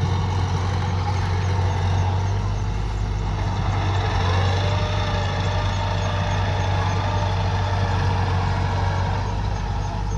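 Kubota DC-105X combine harvester's diesel engine running steadily, a deep, even drone with no change in speed.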